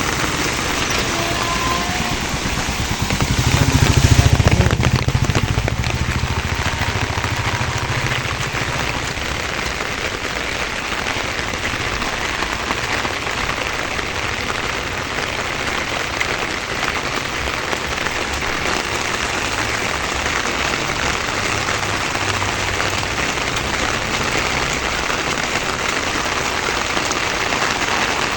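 Heavy rain falling steadily. A brief low rumble swells about four seconds in.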